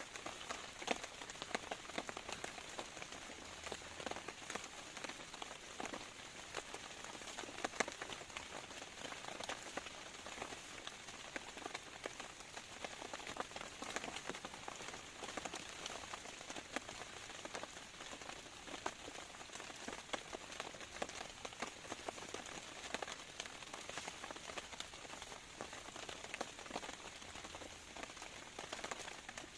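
Rain falling steadily on a surface: a dense, irregular patter of many small drop impacts that keeps on without change.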